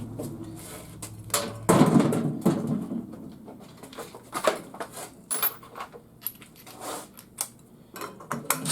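Irregular clicks, knocks and clatter of metal parts and hand tools being handled while a garage door opener is taken apart, the loudest knocks about two seconds in.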